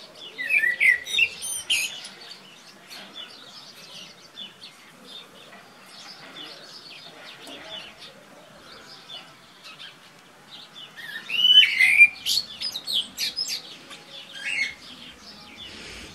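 Small songbirds chirping and singing: quick, high, sliding notes in a cluster near the start and a longer run of calls toward the end, over faint outdoor background.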